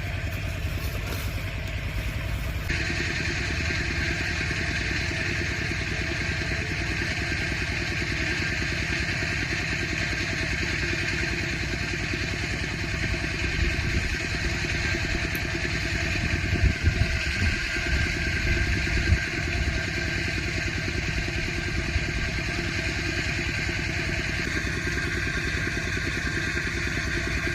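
A small vehicle engine running steadily, like a motorcycle on the move, with a few low bumps about two-thirds of the way through.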